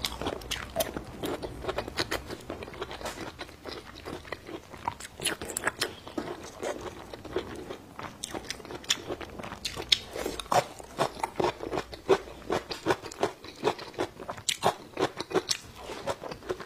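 A person chewing food close to a clip-on microphone: irregular crunches and wet mouth clicks, several a second, getting louder from about ten seconds in.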